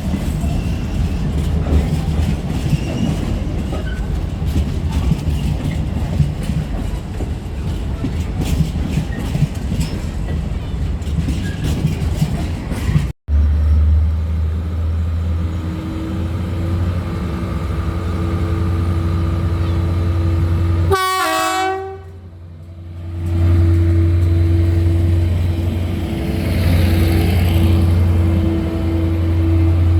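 A train running through with wheel clatter and rumble. After a sudden cut, a train's engine runs with a steady low drone and a steady higher tone above it, with a short falling run of tones about two-thirds of the way in.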